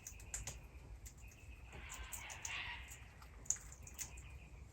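Australian king parrots feeding on seed: faint, scattered sharp clicks of beaks working seed husks, with a soft rustle about two seconds in.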